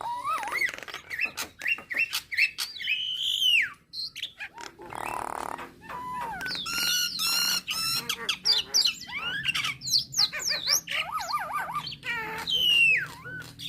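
Nias hill myna singing: a varied run of loud sliding whistles, quick sweeping notes and wavering warbled trills, with a harsh, noisy call about five seconds in.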